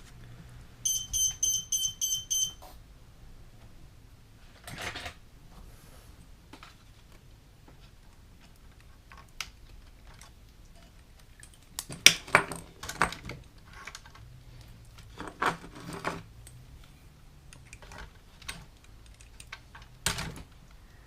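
A quick run of about seven electronic beeps near the start, then scattered clicks and knocks of small parts and tools being handled, the loudest a clatter about 12 seconds in.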